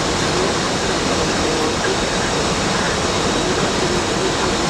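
Steady rushing noise of air inside an Airbus A320 cockpit in flight, an even hiss at a constant level.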